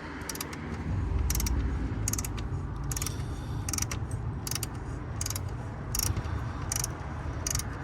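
Ratchet wrench clicking in short strokes, about one stroke a second, as a car battery's terminal or hold-down nut is tightened. A steady low rumble runs underneath.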